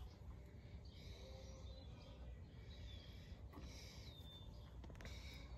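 Faint bird chirps, a few short falling whistles about a second apart, over a quiet low background hum.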